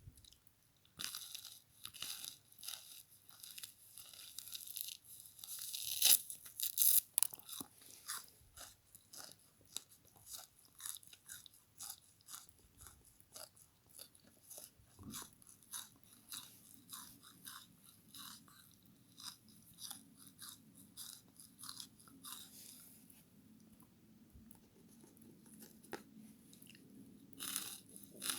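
Chewing and biting into a frozen bath sponge scrubber: repeated crisp crunches, dense and loudest in the first several seconds, then thinning to lighter, scattered crunches, with a louder cluster near the end.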